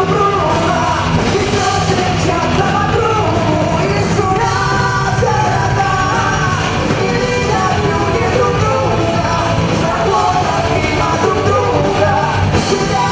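Loud rock music with a singing, shouting voice over a full band, playing steadily throughout.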